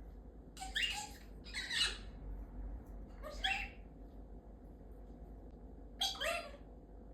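Galah cockatoo giving four short, harsh screeching calls: two close together in the first two seconds, one about three and a half seconds in, and one near the end.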